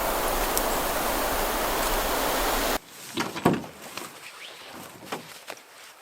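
Steady rush of wind on the microphone and lapping waves, which cuts off abruptly about three seconds in. After that it is much quieter, with scattered knocks and clicks and one louder thump about half a second later.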